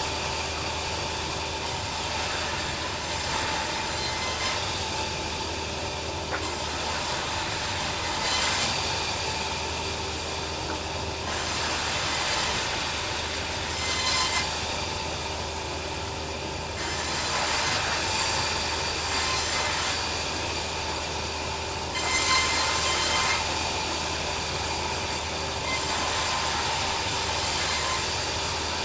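Bandsaw sawmill running, its blade cutting through a log with a steady hum under a rasping hiss that swells and eases every few seconds.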